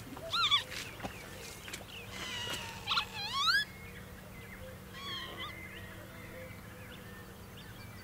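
Wild birds calling in a marsh. Three loud calls with strong harmonics that swoop down and up in pitch: one about half a second in, a longer one rising steeply at about three seconds, and a softer one around five seconds.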